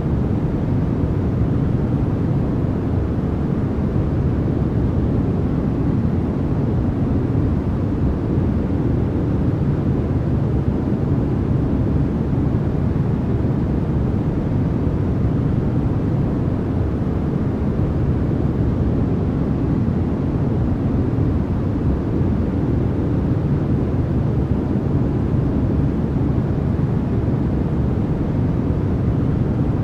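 Continuous generated sleep noise, sold as white noise: a deep, even hiss with most of its weight low and only faint top end, unchanging throughout.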